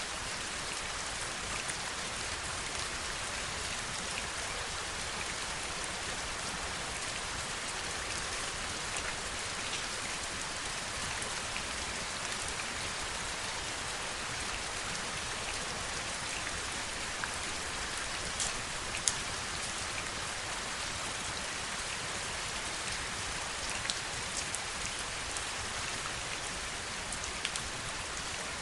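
Steady heavy rain: an even hiss of rainfall with scattered individual drops tapping, a few sharper drop hits standing out about two-thirds of the way through and near the end.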